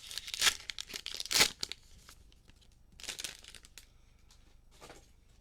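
Trading card pack wrappers being torn open and crinkled by hand: a few short tearing and crinkling bursts, the loudest about a second and a half in, with quieter rustles later.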